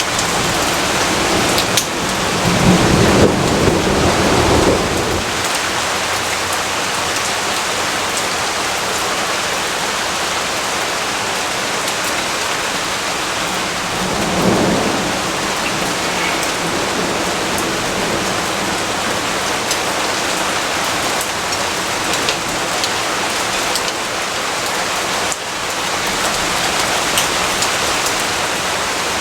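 Steady rain falling, with thunder rumbling: a louder low roll about two to five seconds in and a shorter, fainter one about halfway through.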